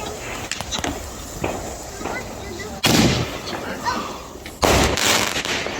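Two loud firework bangs about two seconds apart, the second one longer, with a few lighter pops before them.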